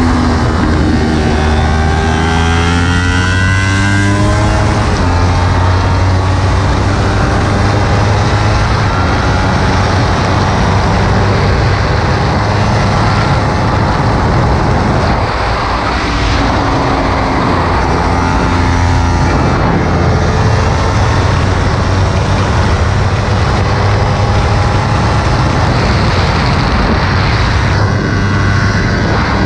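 Kawasaki Ninja 300's parallel-twin engine running hard on track, its note rising and falling repeatedly as the bike accelerates and slows, under heavy wind noise on the microphone.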